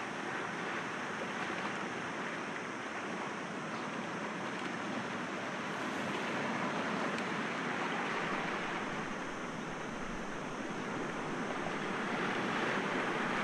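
Sea waves breaking gently against rocks: a steady rushing wash that swells a little louder about halfway through and again near the end.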